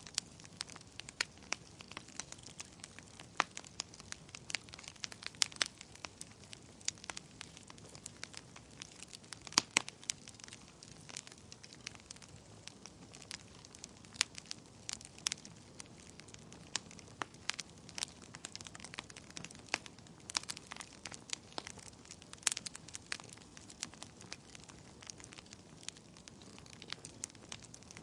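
Wood fire crackling in a fireplace: irregular sharp pops and snaps, several a second and a few much louder than the rest, over a faint steady hiss.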